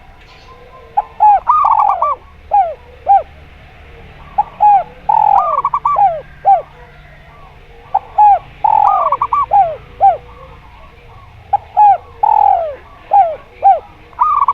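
Zebra doves and spotted doves cooing. Four phrases come about every three to four seconds, each a quick run of clipped notes with several falling coos.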